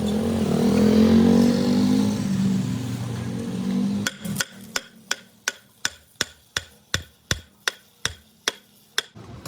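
A steady, loud low drone, then from about four seconds in a run of about fourteen sharp, evenly spaced hammer blows, about three a second, typical of hammering on truck gearbox parts during a repair.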